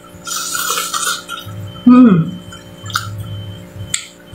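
Close-up mukbang eating sounds: wet, crackly chewing of a mouthful of cooked leafy greens, with sharp mouth clicks. About two seconds in comes a short hum of the voice, falling in pitch.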